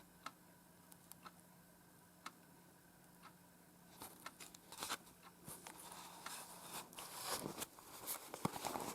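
Scattered faint clicks, then from about four seconds in a denser run of scratchy, rustling noises.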